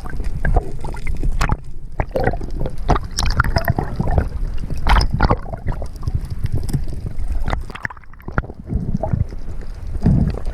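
Water sloshing and gurgling close to the microphone, with irregular splashes and knocks.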